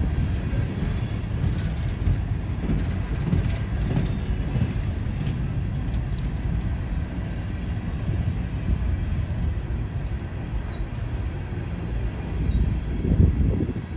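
A passing train: a steady low rumble of wheels on rail with scattered faint clicks, swelling briefly near the end.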